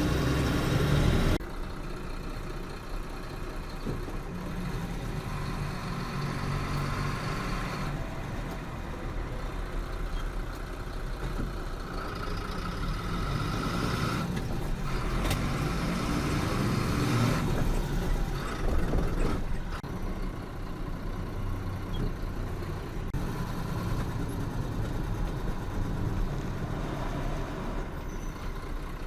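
Truck engine and road noise while driving: a continuous low rumble whose tone shifts as the vehicle moves, dropping in loudness about a second in.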